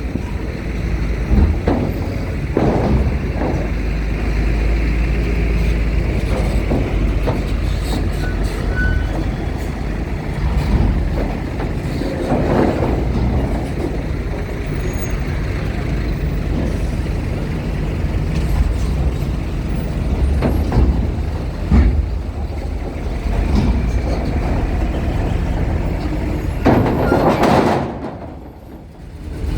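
Heavy vehicles such as trucks and buses running at a ferry loading area: a steady low engine rumble with scattered knocks and short bursts of hiss. The sound drops away briefly near the end.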